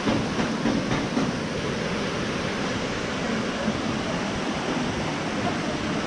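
Steady rush of flowing, falling water, an even hiss with no break.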